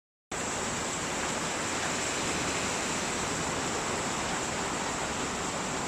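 Steady, dense noise of a medicane, a hurricane-force Mediterranean storm, with no let-up. It cuts in abruptly just after the start.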